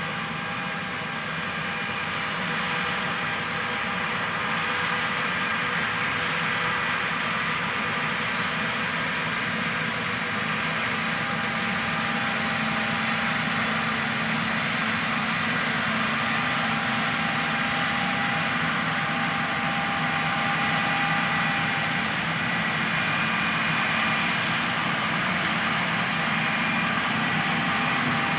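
John Deere S670 combines running as they harvest soybeans: a steady machine drone with several constant whining tones, slowly getting louder.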